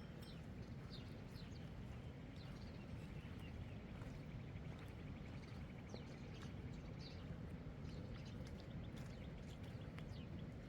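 Outdoor ambience: a steady low rumble like wind, with scattered short high bird chirps and a brief rapid trill about three seconds in.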